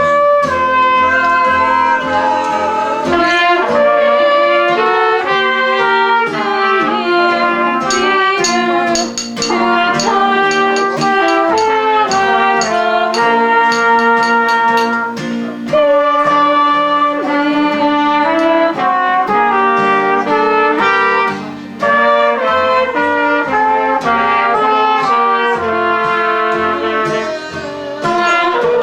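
A small brass band, trumpets and trombone to the fore, playing a tune together, with brief breaths between phrases.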